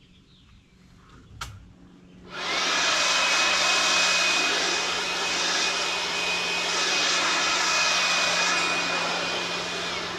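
Chainsaw of a chainsaw mill throttled up to full revs and held steady while cutting along a log, with a high steady whine over the engine noise. It starts abruptly about two seconds in and drops away near the end.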